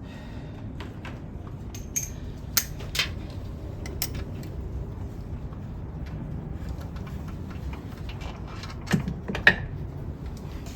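Scattered sharp metallic clinks and knocks of hand tools and loose engine bolts being handled, the loudest pair near the end, over a steady low hum.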